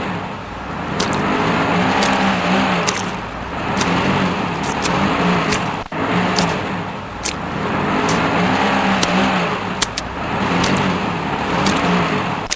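Motor vehicle engine revving up and down over and over, with scattered sharp ticks; the sound breaks off for an instant about six seconds in and picks straight up again.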